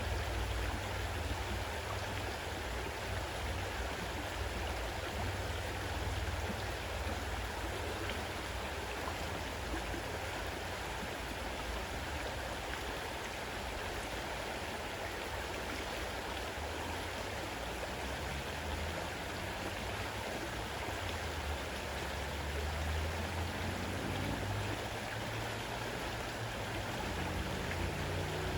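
Fast-running river water rushing steadily, with a deep rumble underneath. Faint, low rising tones come in twice near the end.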